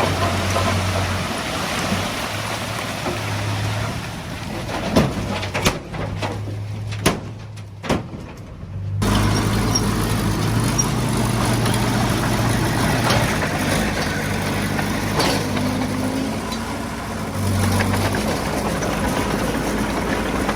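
Heavy diesel engine of earthmoving equipment running steadily under load. Around the middle the engine drops away for a few seconds and a few sharp knocks stand out, before it comes back abruptly.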